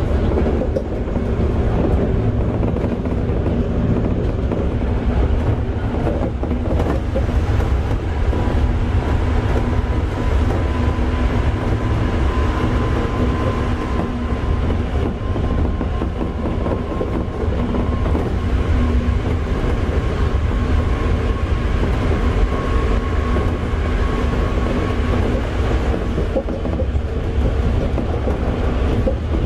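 Toei 5300 series electric train with Mitsubishi GTO-VVVF traction equipment running at speed, heard on board: a steady low rumble of wheels on rail with clickety-clack over the rail joints. A faint high whine near the middle rises slightly, then fades.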